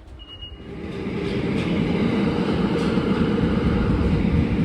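A metro train's rumble building up over the first two seconds and then running steady, after a short high beep just after the start.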